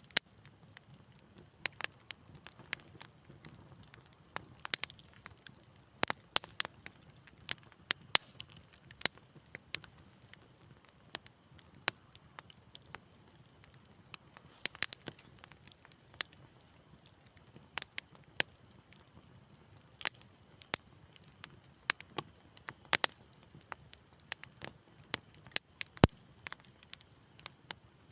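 Wood fire crackling in a fireplace: irregular sharp pops and snaps, several a second at times, over a faint low rumble of the burning.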